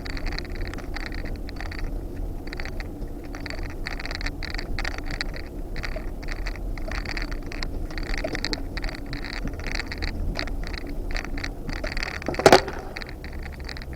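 Off-road vehicle crawling along a rocky trail: a steady low engine rumble under irregular crunching and scraping of tyres and underbody over rocks, with one sharp knock near the end.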